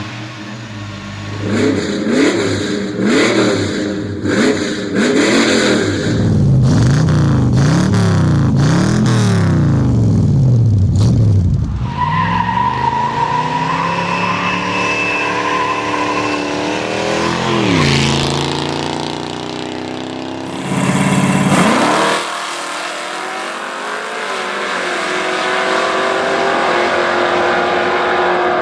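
Classic Ford V8 car engine revved repeatedly, rising and falling in pitch over the first ten seconds or so, then running and pulling away with its pitch climbing and dropping through the gears.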